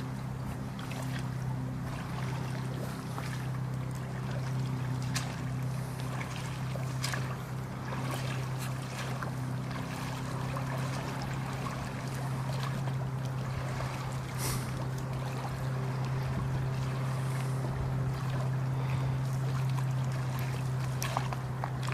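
Small outboard motor running at a steady speed, driving a small boat across the water, with occasional light taps.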